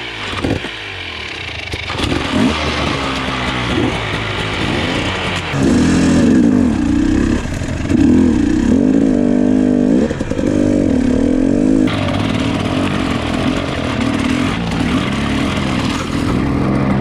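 A 300cc two-stroke enduro dirt bike's engine pulling away and riding on a rough trail, its revs repeatedly rising and dropping as the throttle is worked.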